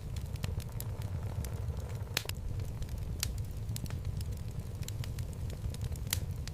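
Wood logs burning in a fireplace: a steady low rumble of flame with frequent sharp crackles and pops, the loudest about two, three and six seconds in.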